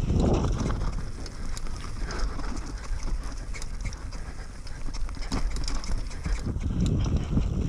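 Wind buffeting the microphone in a low rumble that eases in the middle and builds again near the end, with irregular clicks and clattering knocks throughout.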